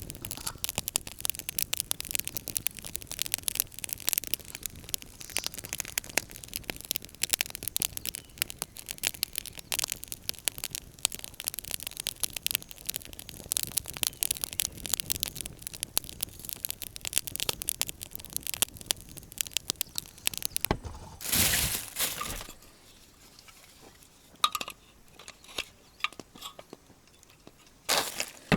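Campfire crackling: a dense run of small irregular pops and snaps. About 21 seconds in comes a short louder rustle, and after it only a few scattered clicks.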